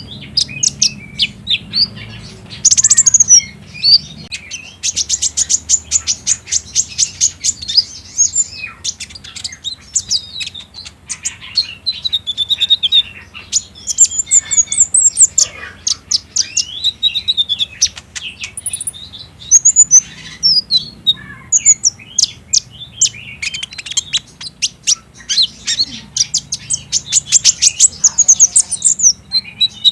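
Sunbird song: a rapid run of high, thin chirps and fast rattling trills, repeating over and over. It is played as a lure to make caged sunbirds answer and sing.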